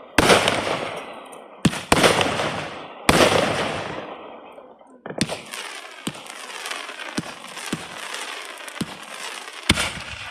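Fireworks going off: three loud booms in quick succession, each trailing off in a long echoing rumble, then a spell of continuous crackling broken by a string of smaller sharp pops.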